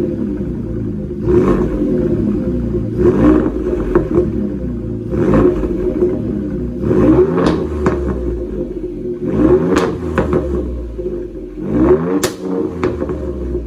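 Ford 3.5 EcoBoost twin-turbo V6 through a Borla ATAK exhaust, idling and being blipped in a series of short revs about every two seconds. Some blips come in quick pairs, and each falls back to idle.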